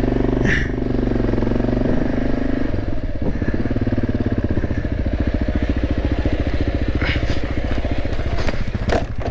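Motorcycle engine held on the throttle at steady revs while the bike is bogged in mud. About three seconds in the note thins and turns choppier.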